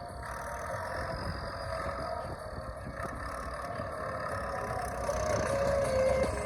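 Tractor's diesel engine running steadily, growing louder from about five seconds in.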